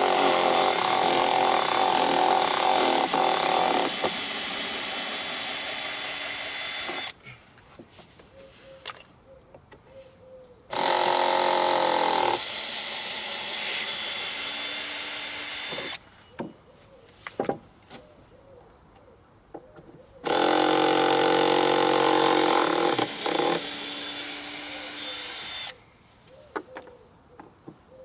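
Cordless power drill in low gear, run in reverse to back screws out of decking boards: three runs of a few seconds each. Each run starts loud and drops to a quieter hum partway through. Between the runs come scattered clicks and knocks.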